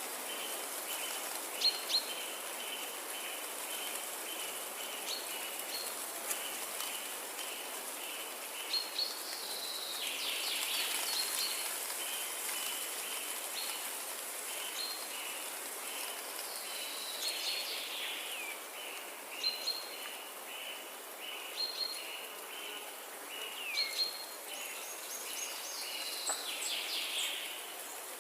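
Forest ambience: an insect chirping in a steady pulse about twice a second under a constant high insect hiss, with birds giving short chirps and a few downward-sliding calls now and then.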